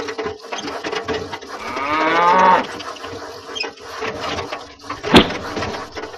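A cow mooing once, one call of about a second that rises slightly in pitch, with small taps around it and a sharp click about five seconds in.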